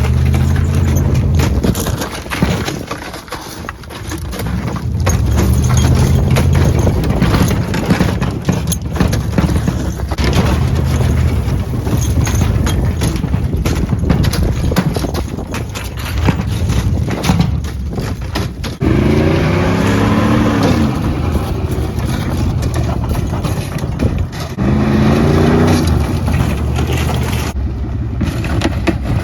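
1996 GMC K1500's 5.0-litre Vortec V8 running through a custom exhaust as the truck is driven, revving up twice, about two-thirds of the way through and again near the end, with knocks throughout.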